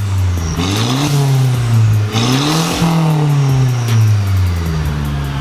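Mercedes-Benz SLK200 (R172) engine and exhaust, fitted with an aftermarket muffler kit, being revved: the revs climb, dip briefly about two seconds in, climb again, then fall away slowly.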